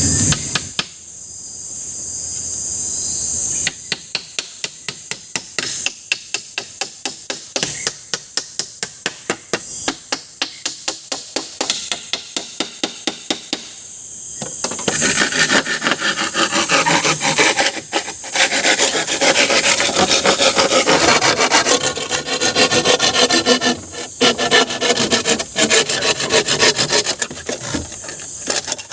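Wood being cut with a hand saw: quick, even strokes about four a second, turning about halfway through into a louder, denser run of rasping strokes with a few short pauses.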